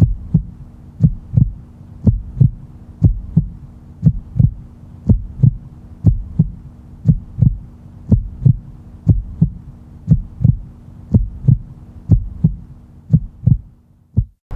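Heartbeat sound effect: paired low thumps, lub-dub, about once a second over a faint steady hum. It starts and stops abruptly.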